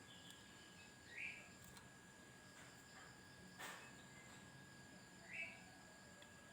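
Near silence with two short, faint chirps from a sooty-headed bulbul (kutilang), about four seconds apart, over a steady faint high insect-like whine. A brief click sounds between them.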